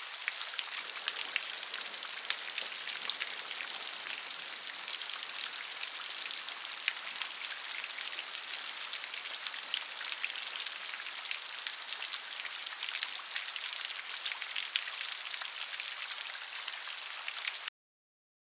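Steady rain falling, a continuous hiss thick with many separate drop hits heard as fine ticks. It cuts off suddenly near the end into complete silence.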